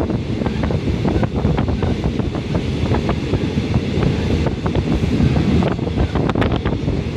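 Train running, heard from inside the carriage: a steady low rumble and wind on the microphone, with frequent sharp rattling clicks.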